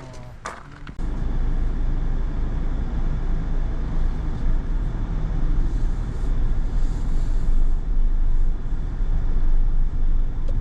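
A car driving, a steady low rumble of engine and road noise that starts suddenly about a second in, after a couple of knocks.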